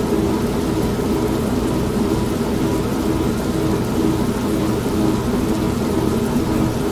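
Old non-automatic washing machine running, a steady motor hum with a slightly wavering tone, mixed with rain and thunder.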